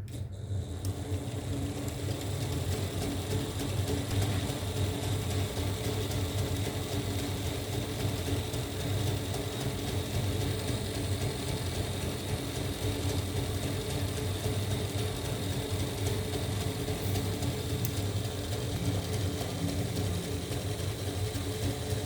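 Small electric motor driving a LEGO Technic gear train, starting at once and running steadily with a whirring hum and the meshing of plastic gears.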